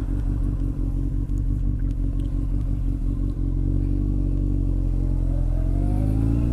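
Honda X4's inline-four engine running under way on the motorcycle. It holds a steady note at first, then rises in pitch over the last two seconds as the bike accelerates.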